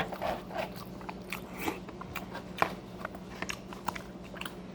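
Close-up eating sounds: a bite into a bean-filled pupusa right at the start, then chewing with many soft, wet mouth clicks and smacks. A faint steady low hum sits underneath.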